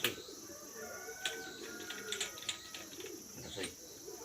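Sharp metallic clicks and clinks from the gear shift of an open Pulsar 220 motorcycle gearbox being worked by hand: a loud click right at the start, then a cluster of clicks near the middle and one more near the end. Pigeons coo in the background.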